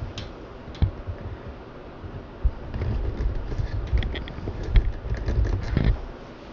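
Handling noise as the camera is moved and repositioned: irregular knocks and clicks over low rumbling, busiest in the second half.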